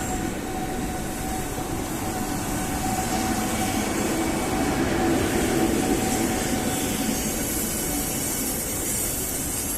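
Ivolga 4.0 electric multiple-unit train running: a steady rail rumble with a thin, high, steady whine over it. The whine fades near the end.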